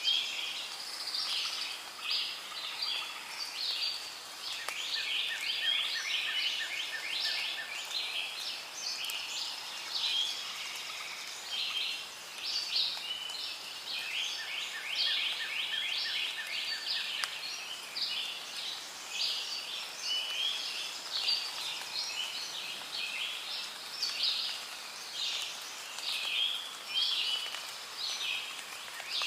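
Rainforest ambience: a dense, continuous chorus of chirping bird calls, with a rapid pulsing trill that comes in and drops out a few times.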